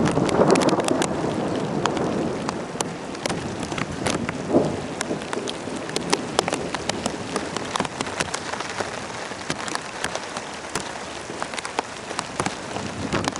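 Rain falling steadily during a thunderstorm, with many sharp drop hits on hard surfaces close by. The rain is louder in the first two seconds.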